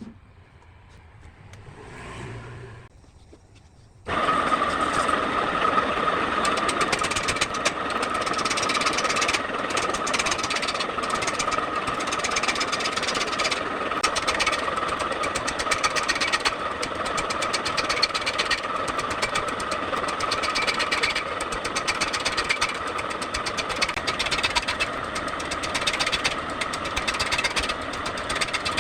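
A power tool cutting wood starts abruptly about four seconds in and runs steadily, with a constant whine and fast, continuous chatter.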